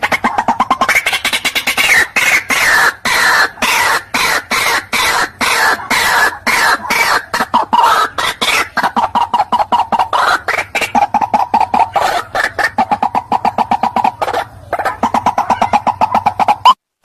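White-breasted waterhen calling in a long, rapid series of harsh repeated notes, several a second, with a brief break near the end.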